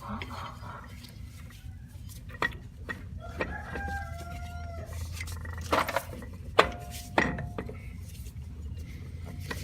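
Sharp metal knocks and clanks as a drive belt is worked onto the clutch pulleys; one knock leaves a brief metallic ring. A chicken calls briefly about four seconds in, fainter than the knocks.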